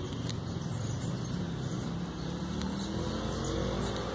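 A vehicle engine rumbling steadily in the background, rising slightly in pitch in the second half. It is overlaid by a few faint scraping clicks of a knife shaving feather sticks from soft wood.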